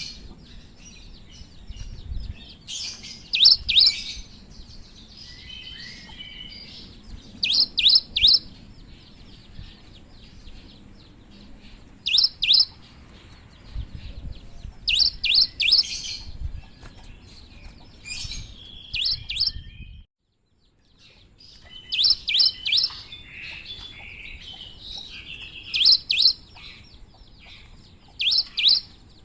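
Cinereous tit (gelatik batu) singing: loud groups of two to four sharp, high notes repeated every few seconds, with softer chirps between. The sound drops out briefly about twenty seconds in.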